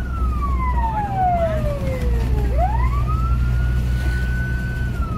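Fire engine siren wailing. The tone falls slowly for about two and a half seconds, sweeps quickly back up and holds high for about two seconds, then starts falling again near the end, over a steady low rumble.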